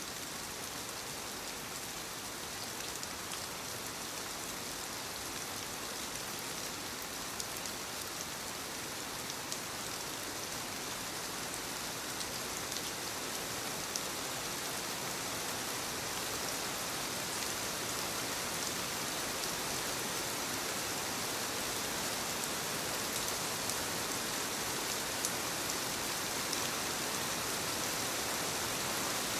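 Steady rainfall, an even hiss of rain with scattered drop ticks, growing slightly louder over the stretch.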